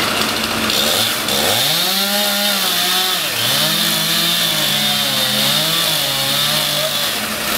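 Two-stroke chainsaw revved up and cutting wood, its engine pitch rising sharply about a second and a half in, then dipping and recovering as the chain bites into the wood, and dropping away near the end.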